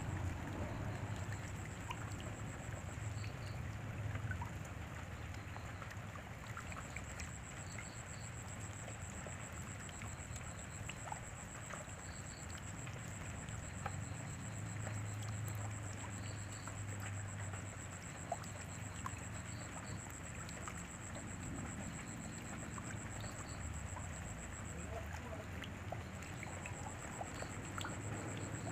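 Rain falling steadily, with scattered single drops tapping close by. A thin, steady, high-pitched tone runs through it.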